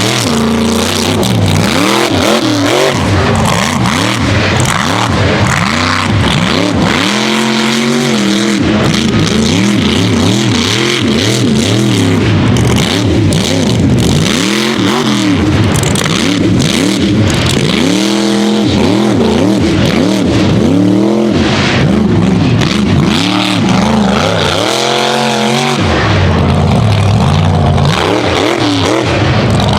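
Unlimited-class mega truck engine racing hard, its pitch rising and falling every second or two as the throttle is opened and lifted, with a few longer climbs in revs.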